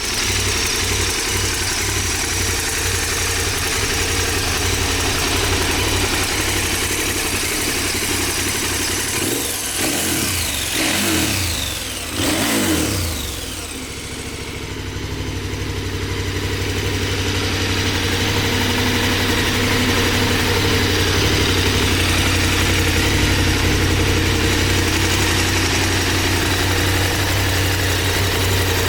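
KTM 1290 Super Adventure S's V-twin engine idling, revved briefly a few times about ten seconds in, then settling back to a steady idle.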